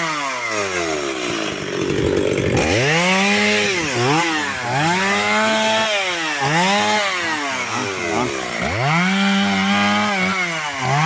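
Two-stroke chainsaw cutting firewood: the engine is throttled up to full speed about five times, holding there briefly on each cut and dropping back toward idle between them.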